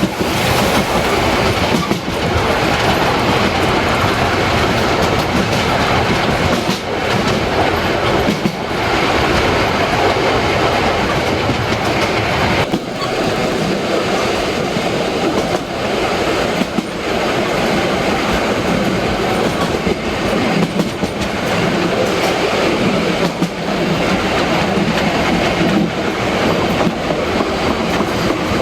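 Harz metre-gauge steam train running along the line: a steady loud rumble with the clatter of wheels over rail joints. The deep rumble thins out about halfway through.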